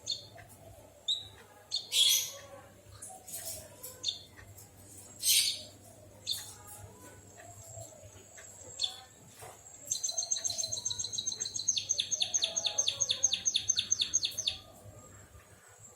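Emprit kaji munia singing canary-like song: scattered sharp chirps at first, then, about ten seconds in, a fast trill of evenly repeated high notes that runs for about four seconds before stopping.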